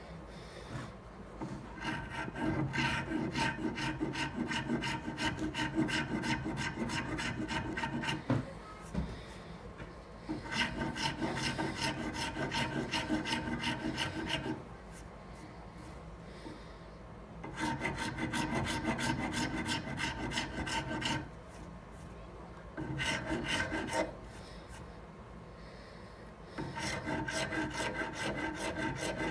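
Half-round hand file scraping back and forth over a paper micarta knife handle in quick, even strokes, in several runs with short pauses between them.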